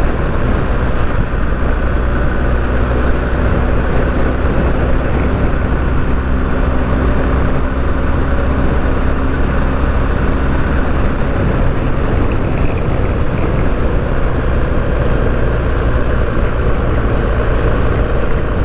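BMW R 1250 GS boxer-twin engine running steadily while the motorcycle is ridden, under a dense rush of wind and road noise. The engine note shifts slightly about eleven seconds in.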